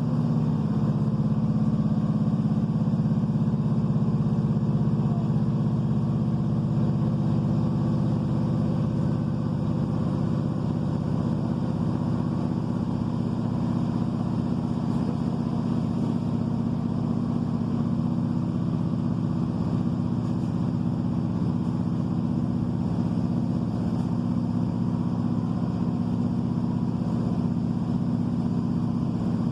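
A Class 153 diesel railcar's underfloor Cummins engine running at a steady pitch, heard from inside the passenger saloon, with the constant rumble of the train.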